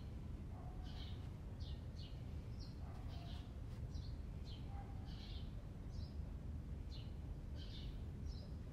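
Small birds chirping in short, high, repeated calls, a few every second or two, over a steady low background rumble.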